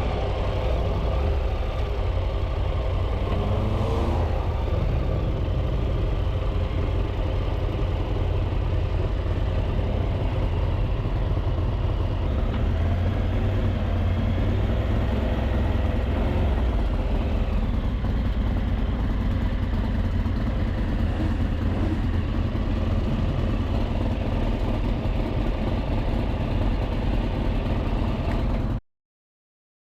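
Triumph Tiger 800's three-cylinder engine running at road speed, with steady wind rush over the helmet microphone. The sound cuts out abruptly to silence about a second before the end.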